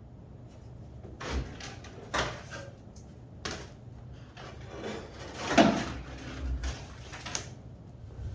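A series of about five clunks and scraping knocks of metal parts and tools being handled, the loudest a little past halfway, over a low steady hum.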